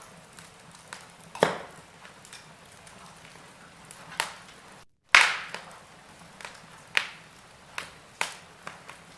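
Wood fire crackling: irregular sharp pops and snaps from burning logs over a low hiss. The loudest crack comes just after a brief drop to silence a little past the middle, and a quick run of smaller pops follows near the end.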